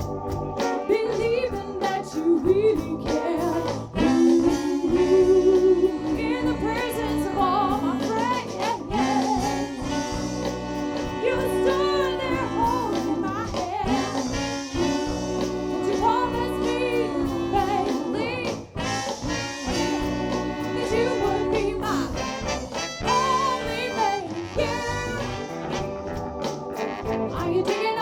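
Live soul band playing with its horn section of saxophone, trombone and trumpet carrying sustained melodic lines over drums, bass, guitar and keyboard.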